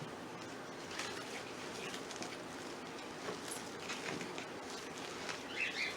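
Faint scattered rustles and scrapes of potting soil being scooped out and dropped back into a plant pot by hand, over a steady low hiss.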